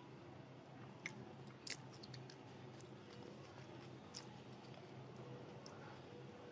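Close-up chewing of food, with a few sharp crunchy clicks about a second in, near two seconds and around four seconds.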